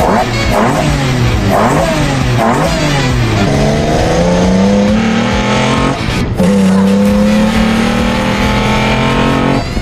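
Car engine revving in several quick up-and-down blips, then pulling hard with its pitch climbing steadily, a short break about six seconds in, and climbing again from a lower pitch.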